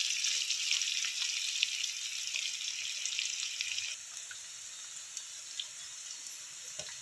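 Chopped onion, garlic and curry leaves sizzling in hot oil in a kadhai, a steady hiss with small scattered crackles, frying until the onion browns. About four seconds in the sizzle drops noticeably quieter.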